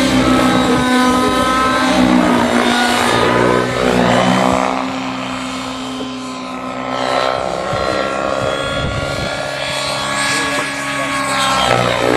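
Nitro-powered Synergy N9 RC helicopter in flight, its glow engine and rotor running with a steady low hum under a whine that slides up and down in pitch as it manoeuvres.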